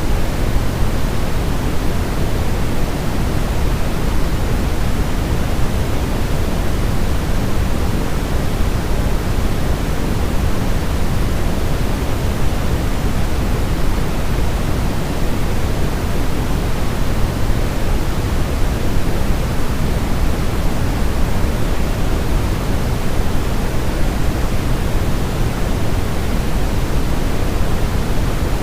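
Continuous synthetic white noise for baby sleep: a steady, even hiss heavier in the low end, with no change.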